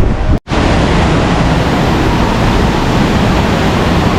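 Loud, steady rushing noise with no tone or rhythm, broken by a brief dropout to silence about half a second in.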